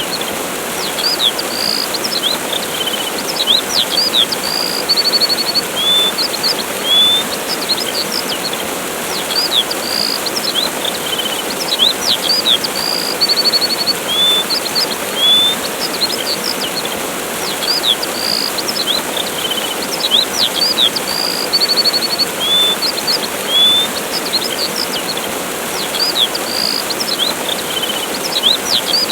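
Steady rush of a waterfall with small birds chirping over it: short whistled chirps, slurred notes and now and then a fast trill, scattered throughout.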